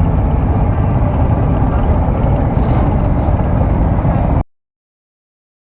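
Steady motorcycle engine and traffic noise, a dense rumble that cuts off abruptly to dead silence about four and a half seconds in.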